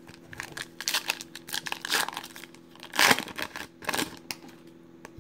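A foil trading-card pack wrapper being torn open and crinkled, in a run of irregular crackling rustles, loudest about three seconds in.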